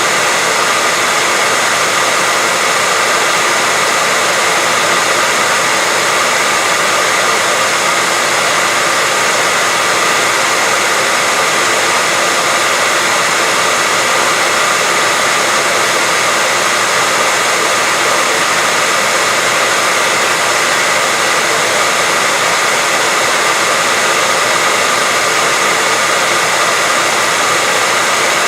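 White noise: a steady, even hiss, strongest in the upper range with little bass.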